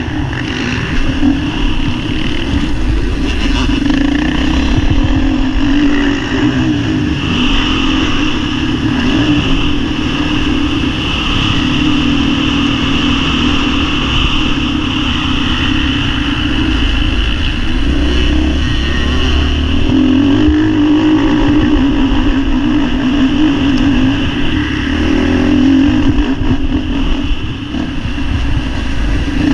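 Motocross bike engine at race pace, heard up close from the bike: a loud, continuous engine note that swells and dips as the rider works the throttle, with a brief dip near the end.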